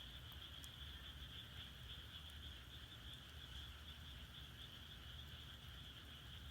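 Faint steady chorus of frogs calling, with a few small crackles from firewood burning in the furnace.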